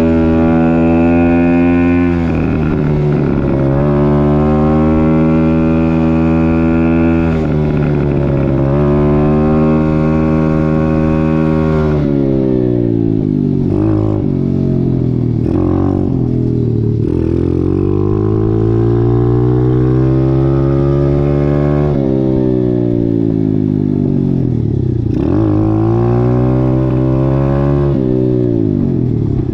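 Dirt bike engine being ridden, its revs climbing and then falling off sharply over and over, with more frequent ups and downs in the second half.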